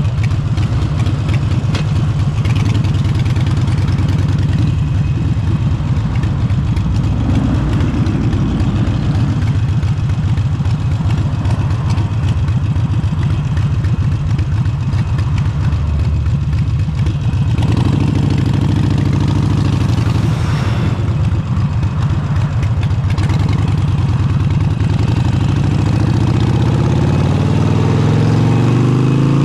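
Harley-Davidson Forty-Eight's air-cooled 1200 cc V-twin running loud and steady through an aftermarket exhaust, with engine speed rising over the last few seconds.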